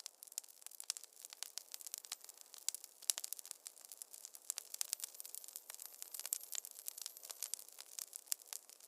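Wood fire crackling in a fireplace: a dense, irregular run of small pops and snaps over a soft hiss.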